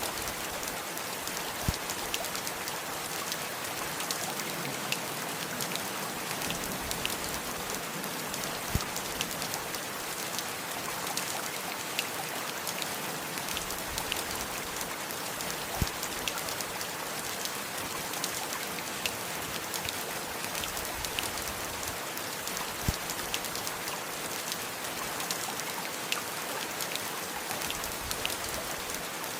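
Steady rain falling, an even hiss of water with many small, sharp drop ticks and an occasional louder drip every several seconds.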